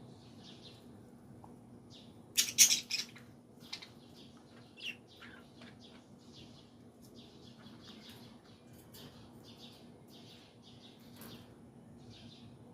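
Small pet bird chirping in short, repeated calls, with a brief, much louder and harsher burst about two and a half seconds in.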